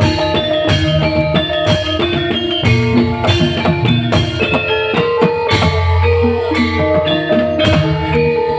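Live band music: a drum kit keeps a steady beat under sustained melody notes from the band's instruments.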